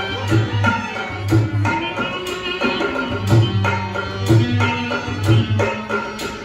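Rajasthani folk music: a hand drum keeps a steady, repeating beat under a sustained melodic line.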